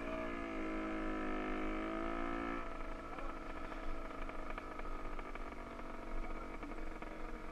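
Motorcycle engine revving up and holding a steady pitch for about two and a half seconds, then easing off and running on more quietly.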